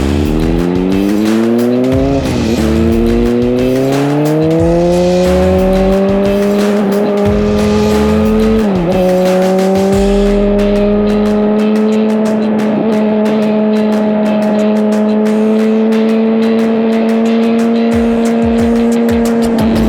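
Suzuki GSX-R1000 inline-four engine and exhaust under acceleration. The revs climb, dip briefly at gear changes about two and nine seconds in, then hold steady at high revs.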